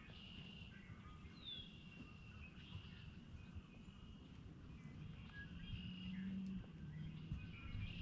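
Faint bird chirps and short calls in bare woodland, including a quick falling whistle about a second and a half in, over a low rumble; a low hum swells about six seconds in.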